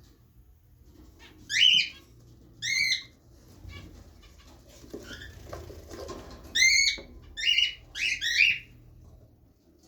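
Cockatiel calling: six short, loud calls, two in the first three seconds and then a quick run of four from about six and a half seconds in.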